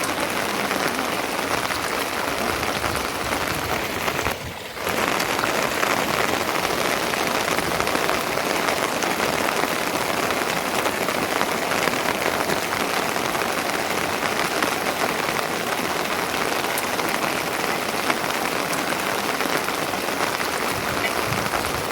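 Steady rain falling, a dense even patter that dips briefly about four seconds in.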